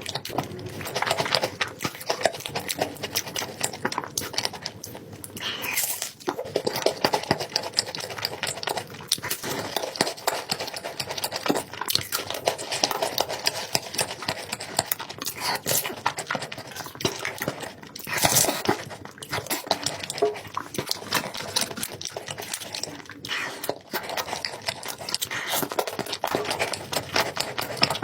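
Chocolate cake being eaten: close chewing with many irregular small clicks and smacks, with a few louder bursts along the way.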